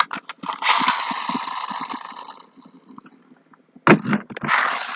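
Pull-back spring motor of a small toy truck, run twice. Each time, a few clicks as it is drawn back are followed by a whirring buzz as the spring unwinds and spins the wheels, fading out over about two seconds.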